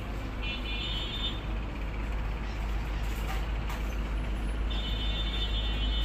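Steady low rumble and hiss of background noise, with a short high multi-tone sound about half a second in and again from about four and a half seconds.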